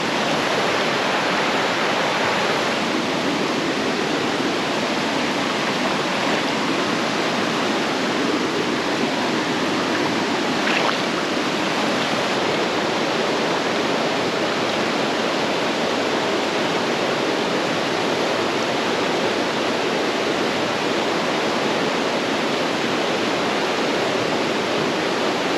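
Steady rushing water, like a mountain stream or small waterfall, a constant even roar with no change.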